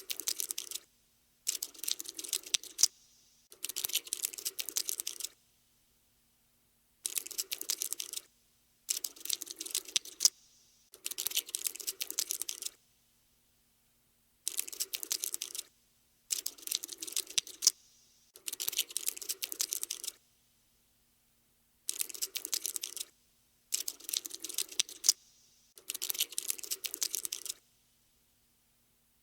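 Cockroach scuttling sound effect: about a dozen bursts of rapid, dense clicking, each a second or so long, separated by short silences.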